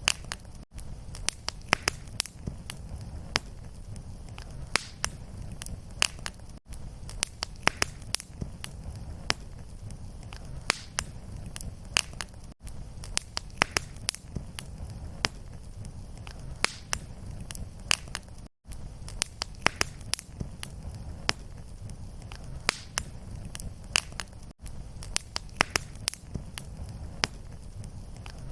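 Wood fire crackling in a fireplace: irregular sharp pops and snaps over a steady low rumble of flame. The sound drops out briefly about every six seconds.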